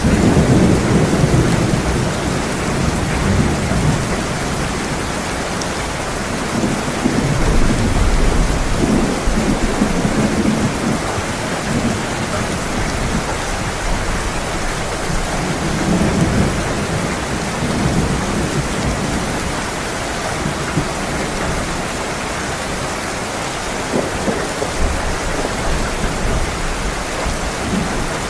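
Heavy rain pouring steadily, with rolls of thunder rumbling low several times, strongest right at the start and again about eight to ten seconds in.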